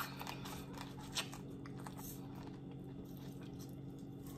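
Faint chewing and wet mouth clicks of a person eating seafood close to the microphone, with one sharper click about a second in, over a steady low hum.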